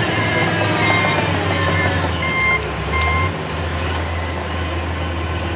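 An earth-moving machine's engine runs while its reversing alarm beeps about once a second. The beeps stop a little over three seconds in, and the engine gets quieter.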